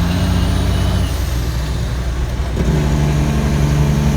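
Kenworth T800 tractor-trailer's diesel engine running on a steep downhill with the engine brake working, a steady low drone with rapid pulsing. A stronger steady drone comes in about two and a half seconds in.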